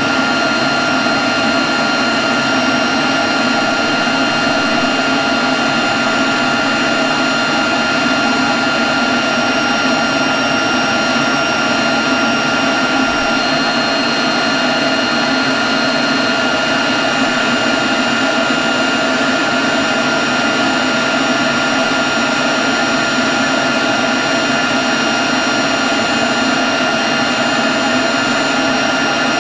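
Leaf blower running steadily at a constant speed, a rushing blast of air with a high motor whine held on top.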